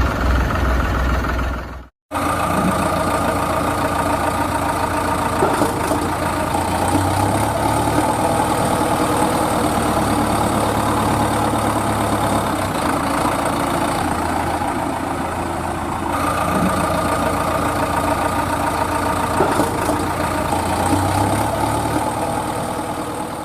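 Tractor engine idling steadily, cutting out for a moment about two seconds in and then running on.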